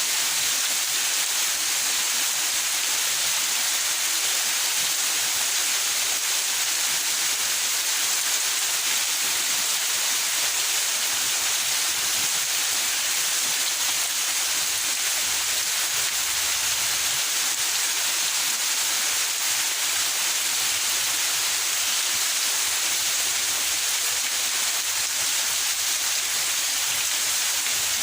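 Steady rain falling: an even hiss with no single drops or other events standing out.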